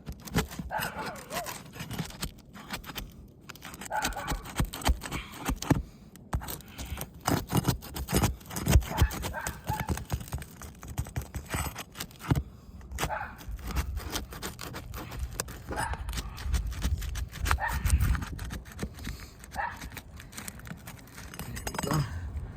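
Asphalt shingles being pried loose with a roof snake shingle-unsealing tool: irregular scraping and clicking as the sealant strip between courses is broken.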